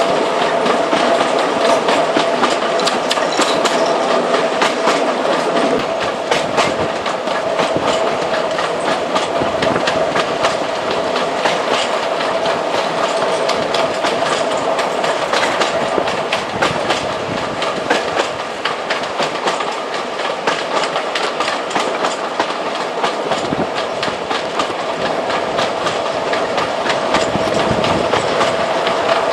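A train running past, its wheels clacking rapidly and continuously over the rail joints, with a steady high tone running underneath.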